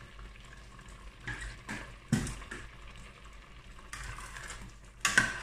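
Tomato purée frying in freshly added groundnut oil in a steel pot, a faint steady hiss. Over it come a few short scrapes and knocks as a plastic spoon stirs it, the loudest about two seconds in and near the end.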